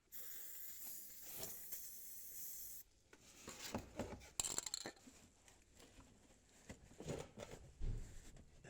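A steady hiss lasting nearly three seconds, then rubbing, scraping and light knocks of parts being handled while rubber exhaust hangers are fitted.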